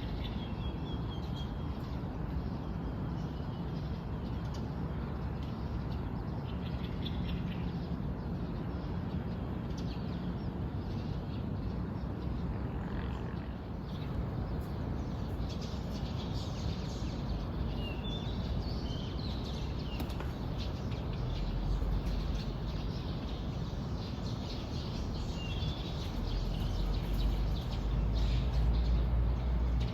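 Small birds chirping now and then, in short high calls, over a steady low rumble that grows louder near the end.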